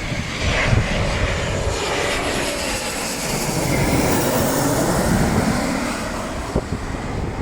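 Embraer ERJ-190's twin General Electric CF34 turbofan engines running with a steady jet rush that swells slightly midway.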